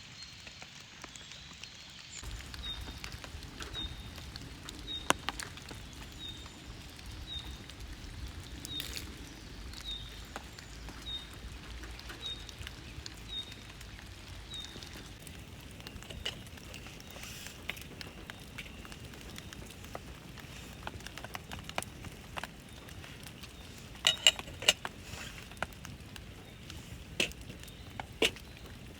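Light rain pattering with a campfire crackling, the sharpest pops clustered near the end. Through the first half a short high chirp repeats about every three-quarters of a second.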